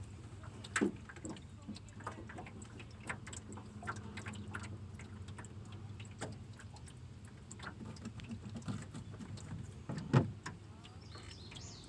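Scattered small clicks and knocks of fishing tackle and bait being handled while a hook is baited with cut shad, two a little louder about a second in and near the end, over a steady low hum.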